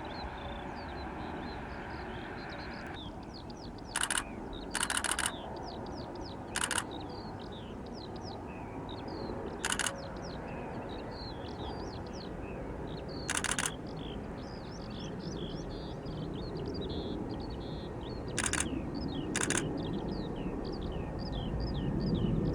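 Small birds twittering continuously, with several short, louder harsh calls scattered through, over a steady low rumble.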